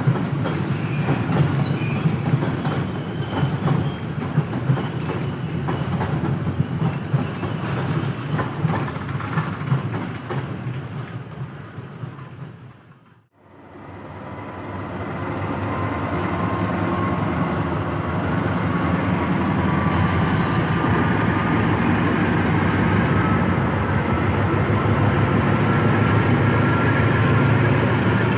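A passing train's wheels clattering rapidly over the rail joints over a low rumble, fading out about halfway. After a moment of silence, another train's steady rumble fades in, with a faint whine slowly rising in pitch.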